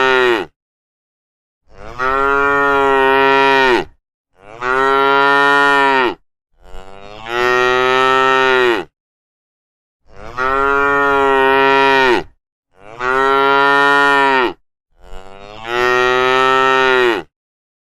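Cattle mooing: a series of about seven long, loud moos, each lasting about two seconds and dropping in pitch at its end, with short silent gaps between them.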